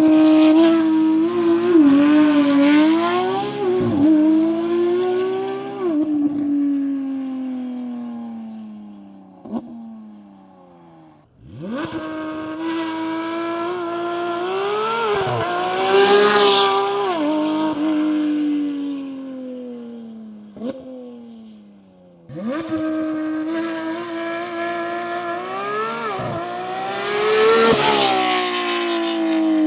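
Porsche 992 GT3 RS naturally aspirated 4.0-litre flat-six through a full titanium X-pipe exhaust, heard in three separate high-rev runs. Each time the high, clean engine note holds, dips sharply and recovers, then falls steadily in pitch and fades over several seconds as the car passes by and draws away. Single sharp cracks sound in the fades.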